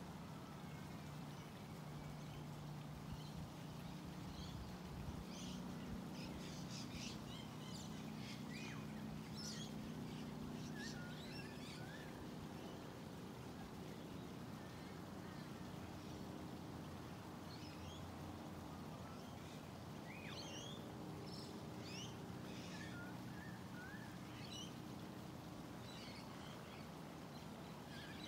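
Birds chirping, with short high calls coming in clusters, over a faint low steady hum.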